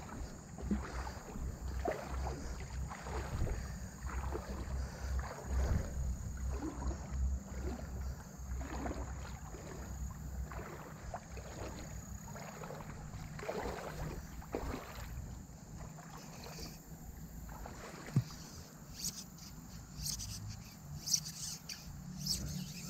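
Someone wading upstream through a shallow creek, water sloshing with each step, with a few sharp clicks near the end.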